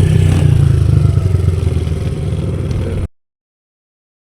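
Small pit bike engine running steadily and loud close by, then the sound cuts off abruptly to dead silence about three seconds in.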